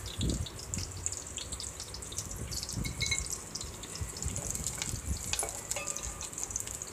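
Onion, garlic and green chillies sizzling and crackling in hot oil in a steel pan, stirred with a spatula.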